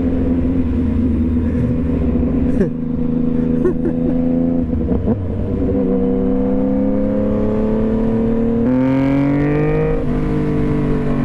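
2015 Yamaha FZ-09's inline three-cylinder engine running under way. The note holds steady, then rises as the bike accelerates from about halfway through, with a shift in pitch near the end as a gear changes.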